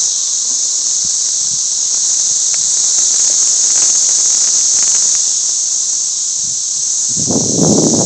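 Chorus of periodical cicadas: a loud, steady, high-pitched drone that does not let up. A burst of rough, lower noise cuts in about seven seconds in.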